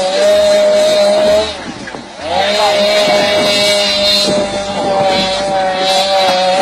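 A vehicle horn sounding in two long, steady blasts: one of about a second and a half, then after a short break a longer one of about four seconds.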